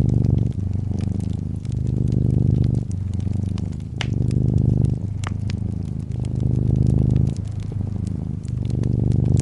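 Brown tabby cat purring close up, a low buzz that swells and dips with each breath about once a second. Scattered snaps and crackles from a fireplace sound over it.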